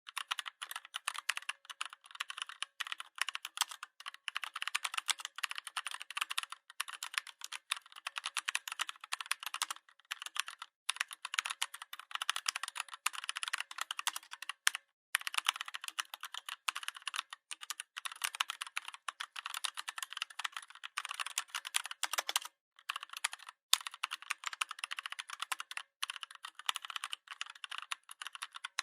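Computer keyboard being typed on continuously: rapid, irregular key clicks, with a couple of brief pauses between runs of keystrokes.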